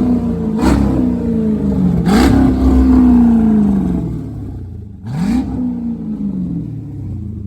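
2006 Dodge Magnum's 5.7 HEMI V8 revved three times with the exhaust open right after the catalytic converters, so it runs loud and raw. It gives a short blip, then a longer rev held for a couple of seconds that falls back, then another blip near the end that settles toward idle.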